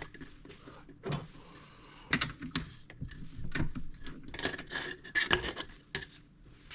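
Hand handling of small metal parts on a workbench: a scattered series of clicks, clinks, knocks and short scrapes, busiest about two seconds in and again around four to five seconds.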